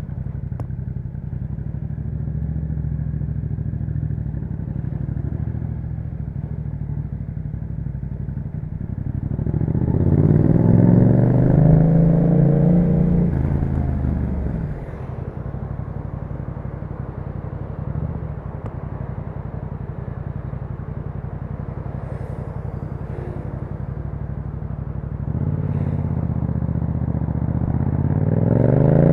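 Yamaha MT-07 parallel-twin engine through an aftermarket Akrapovic exhaust, running at a steady low speed. About nine seconds in it revs up, louder, for a few seconds, then drops back to the steady note, and it starts rising again near the end.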